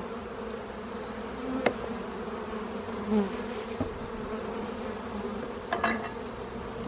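Honeybees buzzing in a steady hum around an opened hive, with single bees passing close now and then. A sharp click about one and a half seconds in and a couple more clicks near the end.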